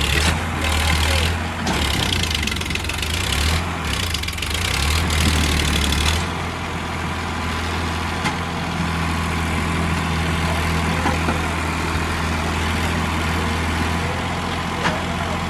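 Sonalika 745 DI tractor's diesel engine running, louder and rougher for the first six seconds, then settling into a steady, quieter run.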